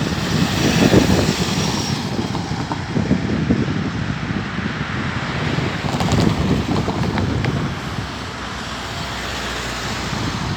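KiwiRail DSG diesel locomotive hauling a train over a level crossing, a steady low rumble with a few faint clicks about six seconds in.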